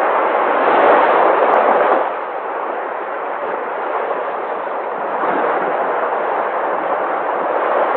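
Sea waves washing ashore in a steady rush of surf, one swell loudest in the first two seconds, then easing and building again toward the end.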